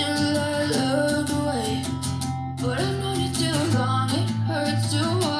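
Guitar-backed song with a melodic line, played back through a portable Bluetooth speaker for a sound test.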